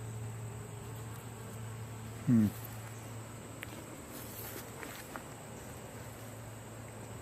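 Honey bees humming steadily around an open hive. A brief falling vocal hum about two seconds in, and a few light clicks a little later.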